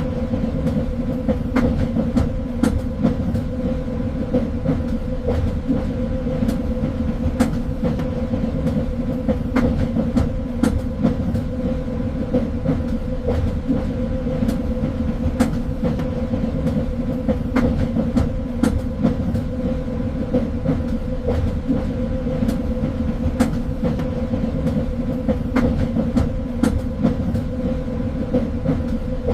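Train running along the rails: a steady low rumble with a constant hum, and irregular sharp clicks of the wheels over the track.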